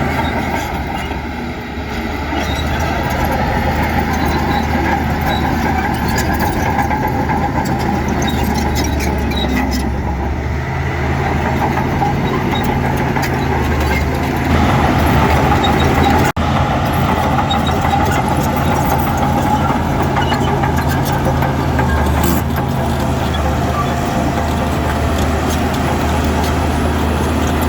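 Heavy diesel engine of earthmoving machinery running steadily, a low engine hum, with a brief dropout about sixteen seconds in.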